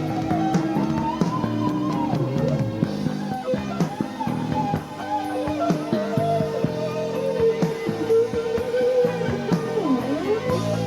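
Live pop band music with guitar and drum kit, carried by a wavering, bending melody line.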